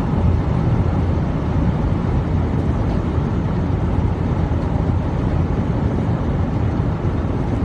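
Steady engine and road rumble inside a moving car, with no breaks or sudden sounds.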